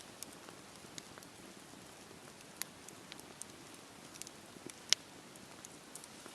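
Campfire crackling in steady rain: a soft, even hiss of rain with scattered sharp pops and snaps from the fire, the loudest about five seconds in.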